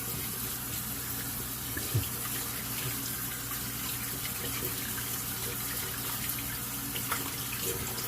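Sink faucet running steadily while shaving gear is rinsed under it, with a couple of light knocks about two seconds in and again near the end.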